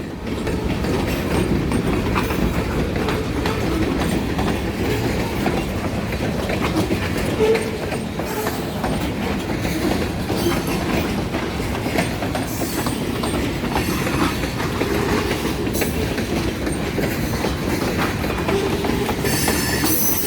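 Freight train rolling steadily past, its wheels clacking over the rail joints, with now and then a short, faint wheel squeal.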